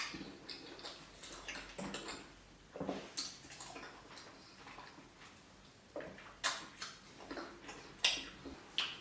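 Close-miked wet eating sounds of fish pepper soup and pounded yam being chewed: irregular lip smacks and sticky mouth clicks, with the loudest smacks about six and a half and eight seconds in.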